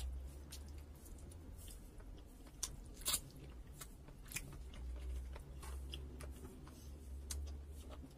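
Close-miked chewing of boiled chicken and rice, with many short wet clicks and smacks of the mouth and a couple of louder clicks about three seconds in.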